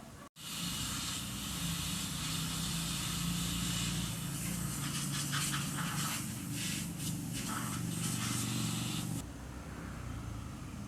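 Yamaha Sniper 155 motorcycle engine running steadily with a hiss over it. It starts abruptly after a brief cut and stops about nine seconds in.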